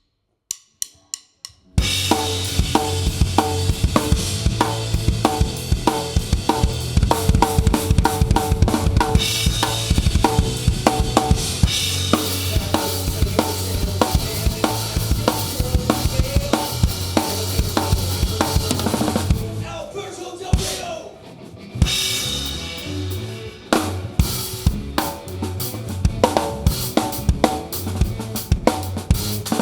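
A rock band's song starting after a short count-in of clicks, with the drum kit loud and close: bass drum, snare and rimshots over bass and guitar. About twenty seconds in the music drops back for a couple of seconds, then the full band comes back in.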